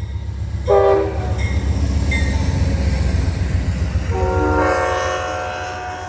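Amtrak passenger train passing close by, a diesel locomotive and bilevel cars giving a steady low rumble. Its multi-tone horn sounds a short blast just under a second in, then a longer blast from about four seconds on.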